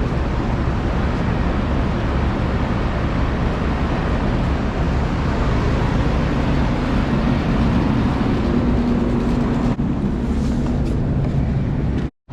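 Running air-conditioning unit: steady fan and compressor noise with a low hum, cutting out abruptly near the end.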